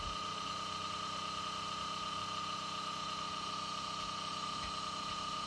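Keurig K-Compact single-serve coffee maker's pump running steadily as it draws water from the reservoir during its first-time setup: a steady hum with a high whine over it.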